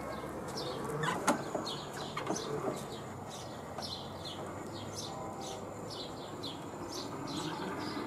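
A bird chirping over and over, about three short falling chirps a second, over the low rumble of a wooden ride-on buggy rolling across concrete, with a few sharp knocks about one to three seconds in.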